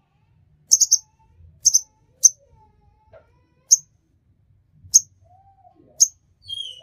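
Songbird giving short, sharp, high-pitched chirps, a quick triple and a double near the start and then single notes about once a second, with faint lower whistled glides between them.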